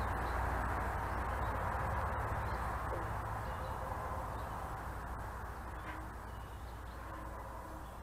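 A few short, faint bird calls over a steady low rumble and hiss that slowly fades.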